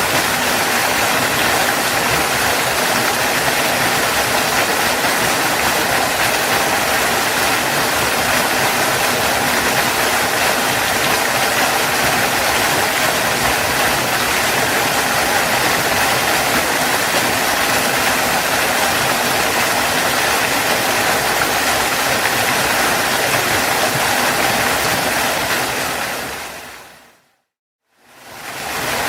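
Waterfall: a steady, even rush of falling water. Near the end it fades out to a moment of silence, then fades back in.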